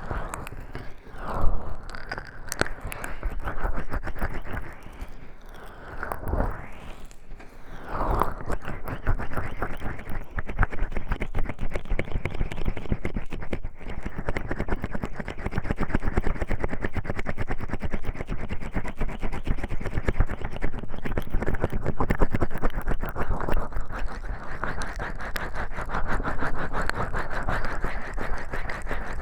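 Hands slick with massage oil rubbing and massaging close to a binaural microphone. For the first eight seconds or so the strokes are slow and separate; after that the rubbing becomes fast and continuous.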